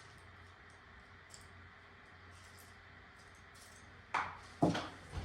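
Low steady room hum, then two short clattering knocks a little after four seconds in and a softer one near the end: hands working sunflower seeds into a cookie cutter pressed into lard.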